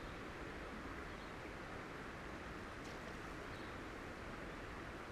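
Steady outdoor background noise, an even hiss with no clear source, with a faint click about three seconds in.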